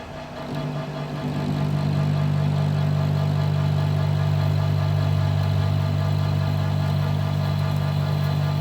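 Metal lathe running at a steady speed: a low, even hum that builds up over the first second or two and then holds level.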